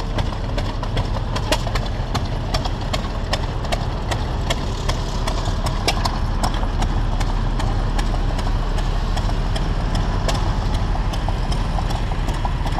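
Antique machinery running: a steady low hum with sharp, slightly irregular clicks a few times a second.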